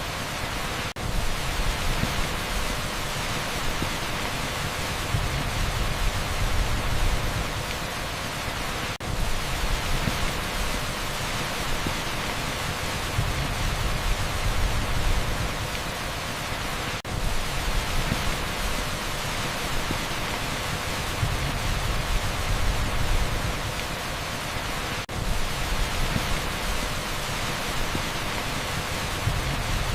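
Heavy downpour on a street, a dense, even hiss like pink noise with a low rumble underneath. A brief dip about every eight seconds marks a looped recording.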